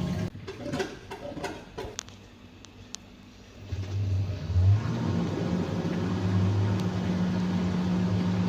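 Fisher & Paykel direct-drive washing machine motor: its hum cuts out, a few clicks follow, and about four seconds in the motor starts again and runs with a steady hum. It runs without grinding, the motor fault now repaired.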